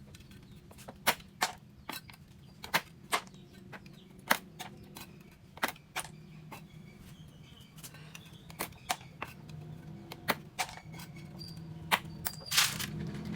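Irregular sharp clicks and pops, a few a second, over a faint low steady hum.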